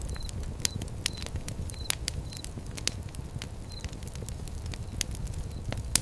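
Fire crackling, with irregular sharp pops over a steady low rumble of flames; the loudest pop comes near the end.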